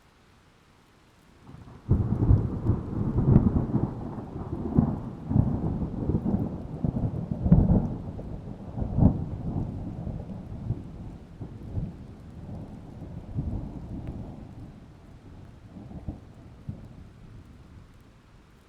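A long peal of thunder during a rainstorm. It breaks in suddenly about two seconds in with sharp cracks, the loudest around three and a half and seven and a half seconds. It then rumbles on more and more faintly until it dies away near the end.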